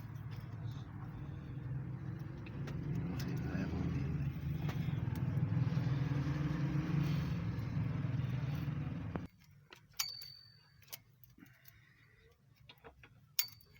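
A motor vehicle engine running with a steady low hum that grows louder over several seconds, then cuts off suddenly about nine seconds in. After that come a few light metallic clicks and taps of hand tools.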